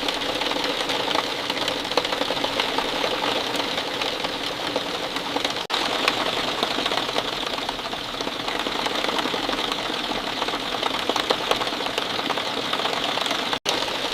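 Steady falling rain, a dense patter of many small drops, cutting out for an instant twice.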